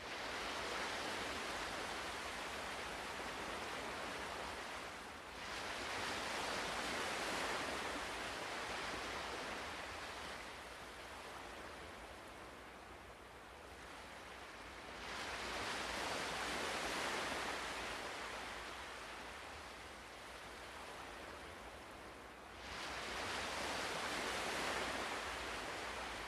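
Ocean waves breaking and washing up a shore. Each surge comes in quickly and fades away slowly, with new waves about 5, 15 and 23 seconds in.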